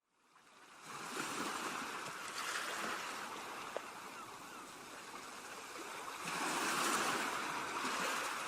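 Ocean waves washing onto a beach, fading in from silence at the start. The surf swells twice, the second wash near the end being the louder.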